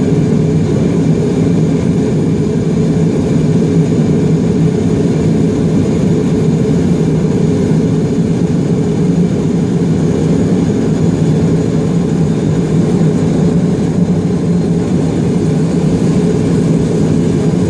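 Grumman Mallard amphibian's port engine and propeller running steadily, with a constant low drone and no change in speed.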